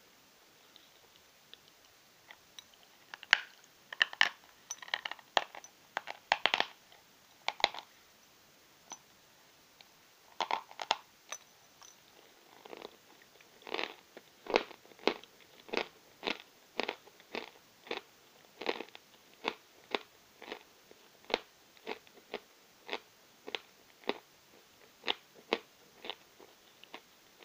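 Chunks of New Oskol natural chalk crunching between the teeth: a few irregular bites and crisp crunches at first, then steady chewing at a little under two chews a second.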